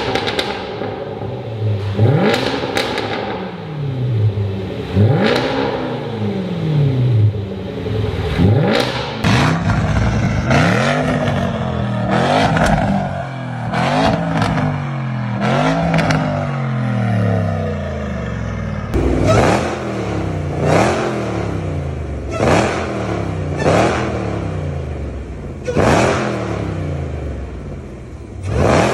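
Three performance SUVs' V8 engines, a Jeep Grand Cherokee Trackhawk, a Range Rover Sport SVR and an Audi RS Q8, revved one after another in repeated short blips through their exhausts. The engine note climbs and falls with each blip, and the sound changes abruptly about a third and two-thirds of the way through as one car gives way to the next.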